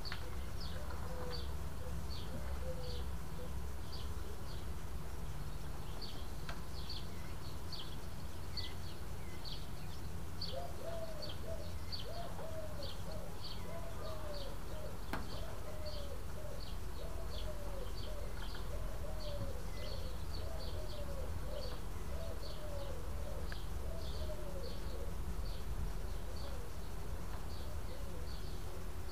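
Birds calling: a high, short chirp repeated about twice a second throughout, joined from about ten seconds in by a lower run of short rising-and-falling calls that stops near the end, over a steady low rumble.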